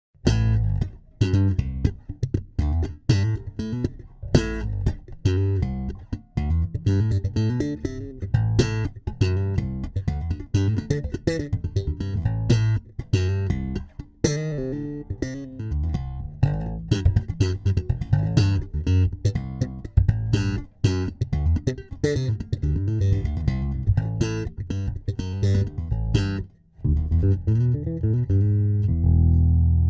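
Electric bass guitar played through an MXR Bass Compressor pedal: a busy line of quick, sharply attacked notes, with a brief gap about three-quarters of the way through and a long held low note at the very end.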